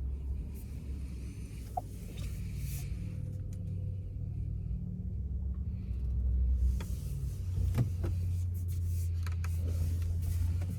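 Low, steady road and tyre rumble inside the cabin of a Porsche Taycan on the move. The electric car adds no engine note, and the rumble grows a little louder in the last few seconds, with a few faint clicks.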